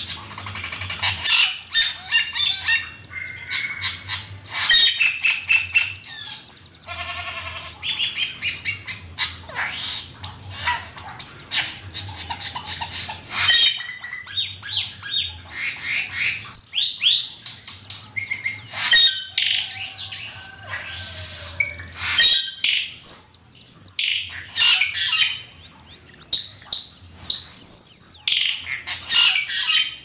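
Cucak keling singing a busy, varied song: quick chirps, rattling trills and sharp high whistles in close succession, with short pauses between phrases.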